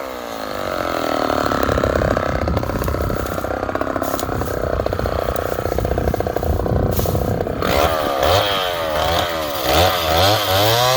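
Two-stroke chainsaw cutting through dry white oak under load for most of the clip, then revving up and down in the last few seconds.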